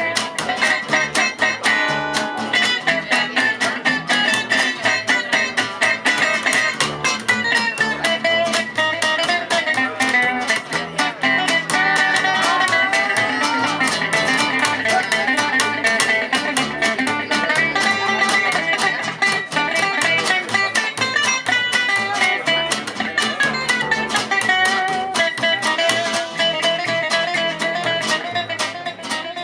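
Live gypsy jazz (jazz manouche) band playing, with guitars keeping a busy, even strummed rhythm under a melodic lead line.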